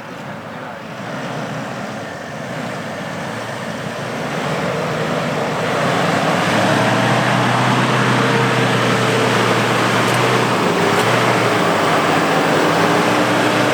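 Diesel 4x4 SUV engine working under load on a soft off-road trail, with a broad rush of noise beneath it. It builds over the first six seconds, then holds loud and steady.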